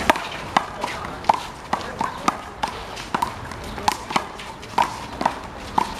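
One-wall handball rally: the rubber ball being slapped by hands and smacking the wall, a quick irregular run of about a dozen sharp slaps, with short squeaks among them.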